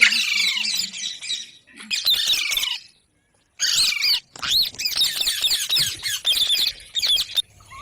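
Parrots chattering with rapid, high-pitched squawks and chirps that overlap one another. The sound cuts out completely for about half a second around three seconds in, then the squawking resumes.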